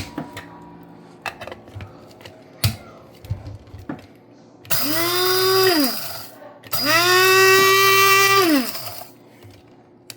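Small electric coffee grinder run twice, for about a second and a half and then about two seconds, grinding salt. Each time the motor whines up to speed, holds steady and winds down, with the gritty rattle of salt crystals under it. Light clicks and knocks of handling come before the runs.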